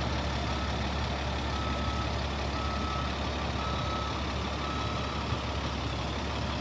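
Caterpillar 3126 diesel engine of a Freightliner FL70 truck running steadily, with a reversing alarm beeping about once a second over it, the beeps fading out near the end.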